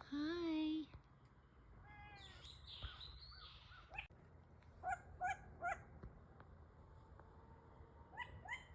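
A series of animal calls: one loud, drawn-out pitched call at the start, a falling call about two seconds in, three short calls in quick succession about five seconds in, and two short rising calls near the end.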